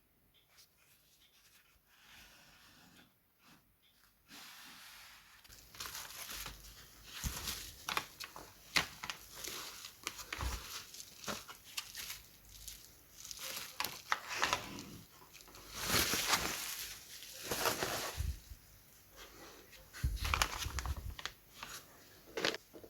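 Hands handling materials at a workbench: irregular rustling and crinkling with scattered clicks and knocks, starting about four seconds in, with a few duller thumps.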